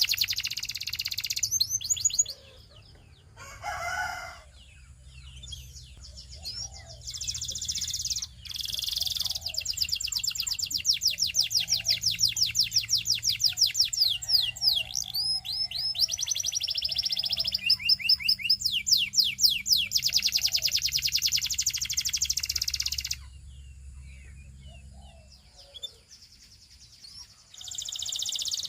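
Belgian singing canary singing: long rapid trills of repeated high notes, broken by short pauses, with a quieter gap near the end.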